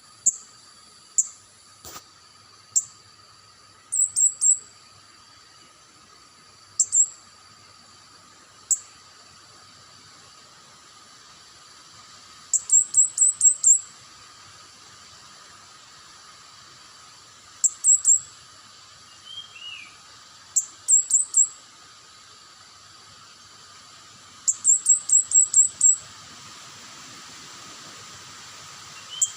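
Calls of an orange-bellied bird: very high, sharp short notes, some single and some in quick runs of four to eight, with pauses of a few seconds between, over a steady thin high hum. Two lower down-slurred notes come about two-thirds of the way through.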